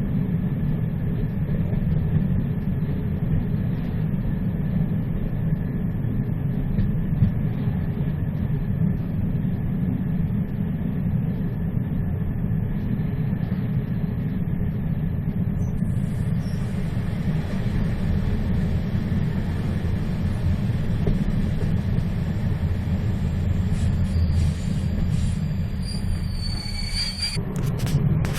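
A moving train running with a steady low rumble. About halfway through a higher hiss joins it, and thin high-pitched tones come and go near the end.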